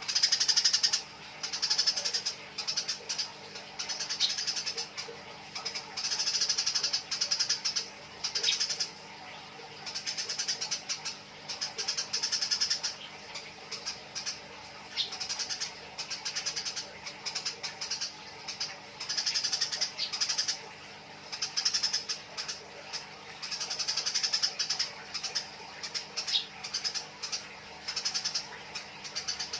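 Eurasian tree sparrows squabbling: bursts of harsh, rapid chattering calls that come one after another with short pauses between them.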